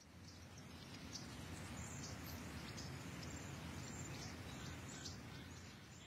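Outdoor ambience: small birds chirping in short, repeated high calls over a steady low background noise.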